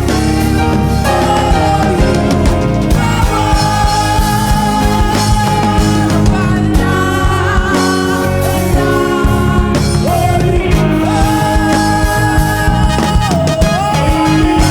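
Choir singing with a live band: long held vocal notes over bass and a steady drum beat, with the melody sliding between notes twice in the second half.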